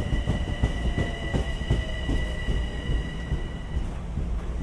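Metro-North electric commuter train rolling past, its wheels clacking over the rail joints under a steady high whine. The sound slowly fades as the last cars pull away.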